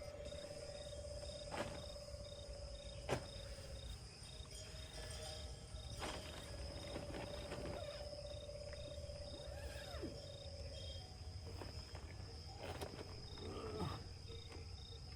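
Insects chirring steadily, one in a high even trill and another in a fast pulsing one. A few sharp cracks sound, about one and a half, three, and six seconds in and again near the end. A steady mid-pitched hum runs twice for several seconds.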